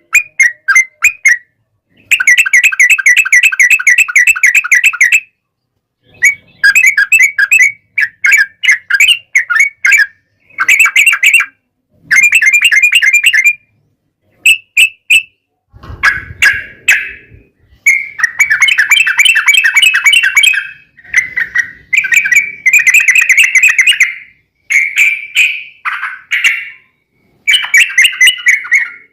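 Yellow-vented bulbuls (trucukan) singing in rapid, bubbly chattering phrases of one to three seconds each, one after another with short pauses between them. This is the fast 'ropel' fighting song used as a lure to make other bulbuls answer.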